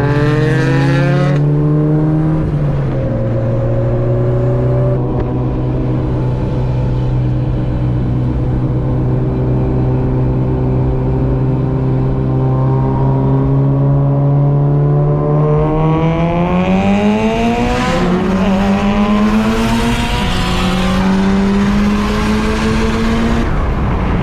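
Mitsubishi Lancer Evolution's turbocharged four-cylinder engine under way. It rises and shifts once, holds steady revs for a long stretch, then accelerates hard in the last third: the revs climb and drop back at three quick upshifts.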